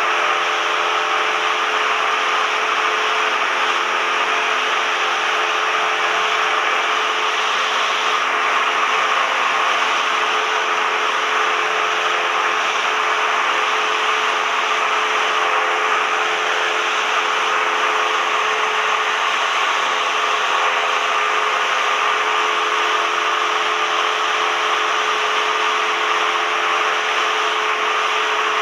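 Cessna 172M's four-cylinder Lycoming engine and propeller running at a steady drone, heard inside the cabin.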